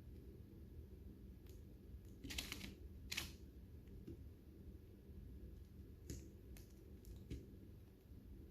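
Lovebirds husking seeds with their beaks: scattered sharp cracks and clicks, two louder ones a few seconds in and several lighter ones later, over a faint low hum.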